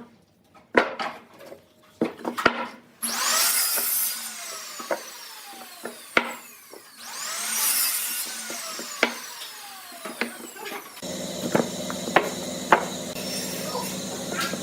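Woodworking tools on wood: a few sharp wooden knocks, then two rushing bursts of a tool cutting wood. About eleven seconds in, a machine starts running with a steady hum, and a few knocks sound over it.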